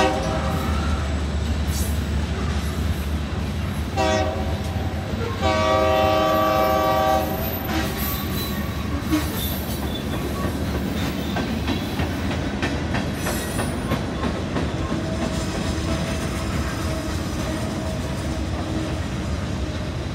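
A train horn sounds a short blast about four seconds in, then a longer blast about a second later, over the steady low rumble of a passing train. Afterward, wheels clatter over the rails as the train keeps rolling by.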